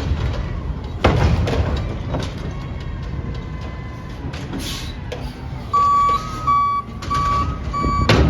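Recycling garbage truck's engine running, with a loud crash about a second in and another near the end. From a little past halfway the truck's reversing alarm sounds a steady beep, about one and a half beeps a second.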